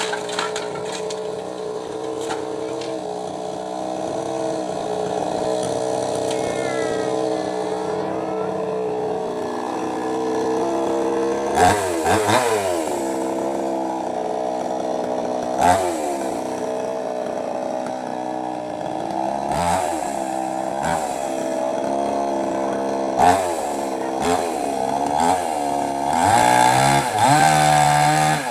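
Mini two-stroke petrol chainsaw running at high speed while cutting wood. From about halfway through, its engine pitch repeatedly dips and recovers as the chain bogs under load in the cut, and it runs higher near the end.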